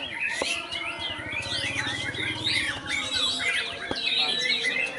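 Several birds chirping and twittering at once, with dense overlapping calls and quick sweeping whistles. A low rapid buzz sounds underneath for about a second and a half, starting a little over a second in.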